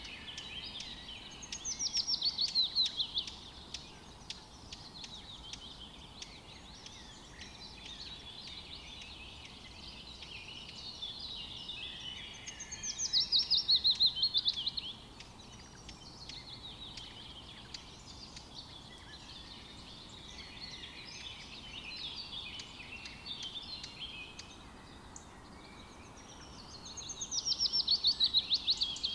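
Forest birdsong: one songbird repeats a loud, rapid trill that falls in pitch, about two seconds long, three times roughly twelve seconds apart, over a steady chorus of fainter bird calls.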